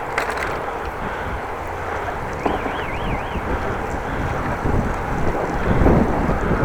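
Gusty wind buffeting the microphone of a camera on a moving bicycle, a rumbling rush that swells stronger near the end. About two and a half seconds in there is a short warbling high chirp.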